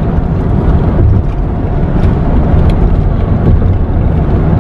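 Steady road noise of a moving car heard from inside the cabin: a loud low rumble of tyres and engine.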